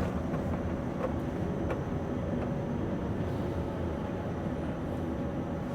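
Scania V8 lorry's diesel engine running steadily under way, heard from inside the cab, with a few faint clicks.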